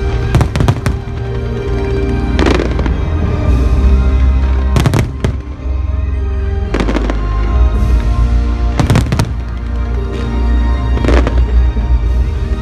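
Fireworks bursting: about six sharp bangs, roughly one every two seconds, over continuous music with a heavy bass.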